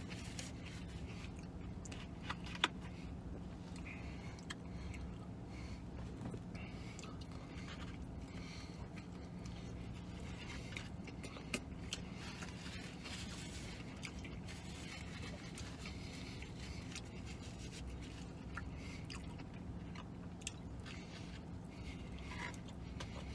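A man chewing a mouthful of a McRib sandwich, with scraping and handling of its cardboard box and a few short sharp clicks, over a steady low hum inside a vehicle cabin.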